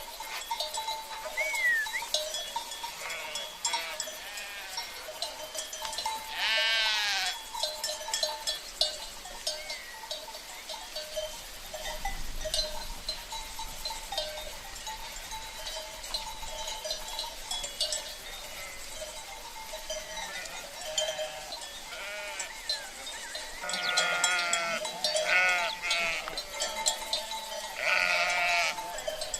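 Flock of sheep with cencerros (livestock bells) clanking continually as the animals move. Sheep bleat over it: one long bleat about seven seconds in, and several overlapping bleats near the end.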